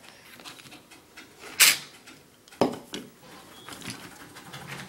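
Toy trains being handled: scattered light clicks and knocks, with a short hissing burst about one and a half seconds in and a sharp click about a second later.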